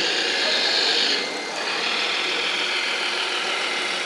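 Small electric motor and gears of a radio-controlled model machine whirring steadily, easing off briefly about a second and a half in.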